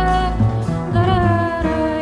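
Live jazz quartet playing: a held wordless vocal melody over double bass and piano, with low bass notes changing every half second or so.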